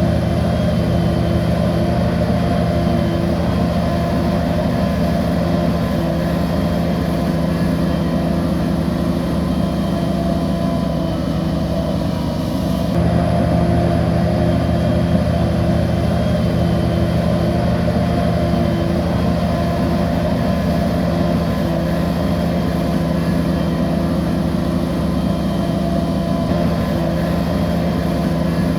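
Bulldozer's diesel engine running steadily under work, with a brief dip in its note about twelve seconds in.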